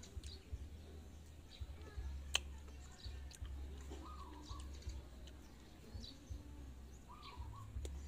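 Faint bird chirps, a couple of short calls, with a sharp click and a few softer clicks over a steady low hum.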